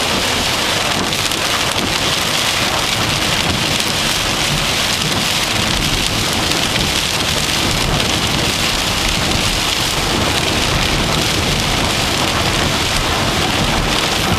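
Heavy thunderstorm rain beating steadily on a car, an even hiss-like patter with no breaks.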